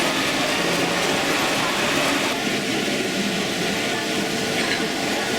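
Steady hubbub of an exhibition hall with H0-scale model trains running on a layout, and a thin steady hum joining about two seconds in.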